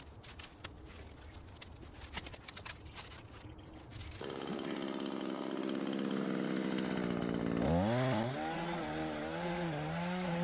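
A chainsaw starts running about four seconds in, after a few faint ticks and knocks, and revs up and down from about eight seconds in.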